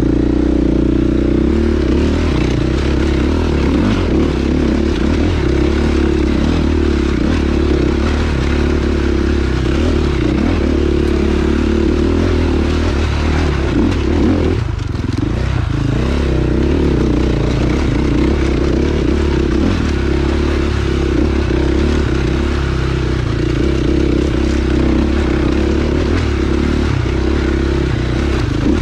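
Dirt bike engine running steadily along a trail at a steady throttle, with rattling and scraping from the bike. The engine note drops briefly about halfway through, then picks up again.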